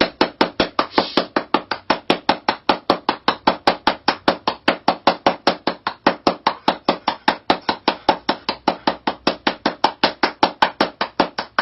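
Rapid, evenly spaced knocks or chopping strikes, about five a second, going on without a break.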